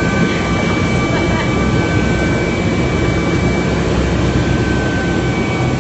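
Helicopter in flight heard from inside the cabin: a steady engine and rotor drone with a few thin, steady high-pitched whines over it.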